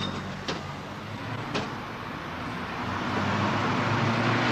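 Old car's engine running, with two sharp clicks about half a second and a second and a half in, then growing louder toward the end as it picks up revs.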